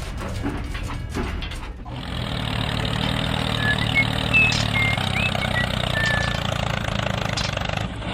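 Clicks and knocks, then, after a sudden change about two seconds in, a steady engine-like hum with a hiss over it, and a few short bird chirps in the middle.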